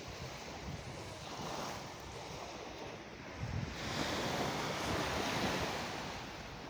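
Ocean waves washing in, a steady surf hiss with one wave swelling louder about halfway through and then fading.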